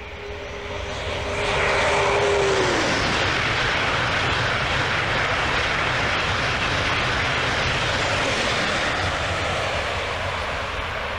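ICE 2 high-speed train passing at about 250 km/h: a steady tone drops sharply in pitch about two and a half seconds in as the front of the train goes by. A loud rushing of wheels and air along the passing train follows, easing near the end.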